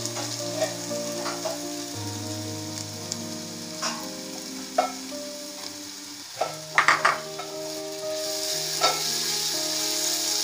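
Onions and chopped tomatoes sizzling in oil in a nonstick pot while being stirred with a wooden spatula, with a few sharp knocks and scrapes of the spatula against the pot, loudest in a quick cluster about seven seconds in.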